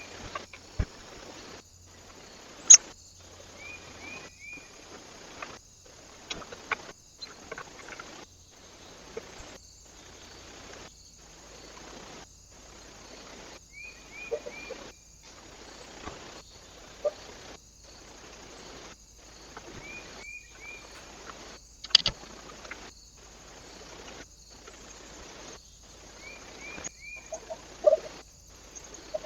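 A small bird gives a short call of three quick notes, about five times, over a steady hiss. Scattered sharp taps and clicks come in between, with two louder ones.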